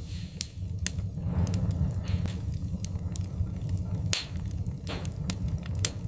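Wood fire burning in a fireplace: a steady low rumble of flames with irregular sharp crackles and pops of burning wood, a few louder pops near the end.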